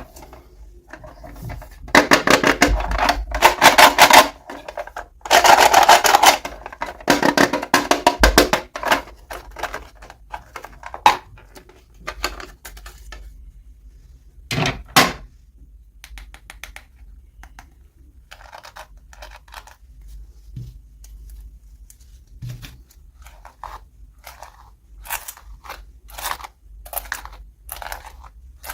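Toy packaging being handled and opened: two long runs of crinkling and tearing, then scattered clicks and taps.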